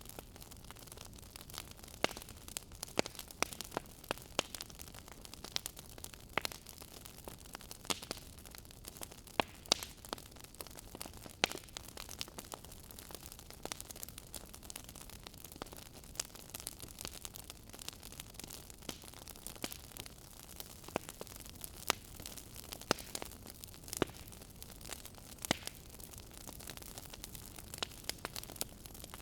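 Wood fire in a fireplace crackling, with frequent irregular sharp pops and snaps over a steady low hiss.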